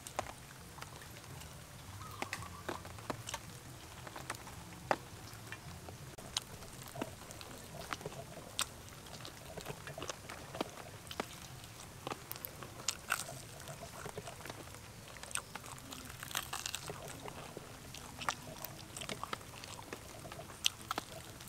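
A person chewing and biting crispy fried chicken wings, with irregular sharp crunches and clicks throughout.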